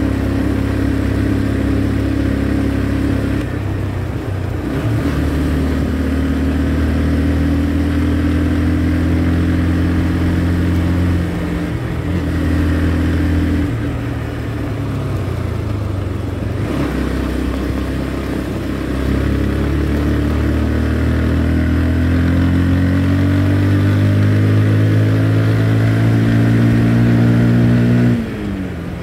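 Motorcycle engine running under way, its pitch climbing slowly as it speeds up and dropping back a few times as the throttle eases or it changes gear, with a sharp drop near the end. A steady rush of wind noise runs underneath.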